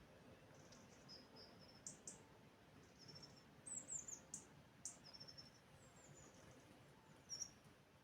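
Small birds chirping faintly, with short high chirps and brief trills scattered throughout, some sharp and some sliding down in pitch, over a quiet steady background hiss.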